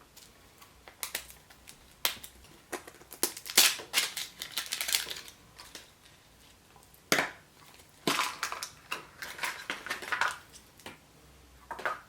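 Crinkling wrapper and clicking plastic as a Chupa Chups surprise egg is unwrapped and opened by hand, in two bursts of quick crackles and clicks with a short pause between them.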